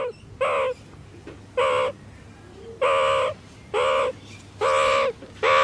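A bird calling over and over: about seven short calls, each under half a second, coming roughly once every second or less, some rising and falling in pitch.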